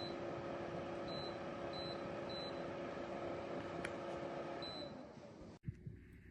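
Small personal evaporative air cooler's fan running with a steady hum and airflow noise, with five short high beeps from the unit as its settings are changed. Near the end the hum stops and the fan noise falls away, then the sound cuts off suddenly to quieter room tone.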